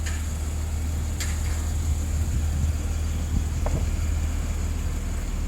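Steady low mechanical hum, with a couple of faint clicks near the start.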